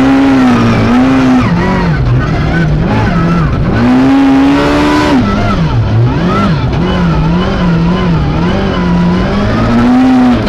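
Suzuki Ignis S1600 rally car's 1.6-litre four-cylinder engine heard from inside the cabin, revving hard with its pitch climbing and dropping at each quick gear change. In the second half it changes down through the gears as the car brakes, with short rises and falls in pitch.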